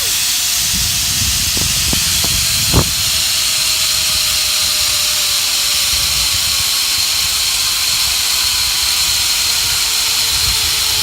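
Zip line trolley running along the cable: a steady high hiss with a thin whine that slowly falls in pitch as the rider slows down, and wind rumbling on the microphone. A short knock about three seconds in.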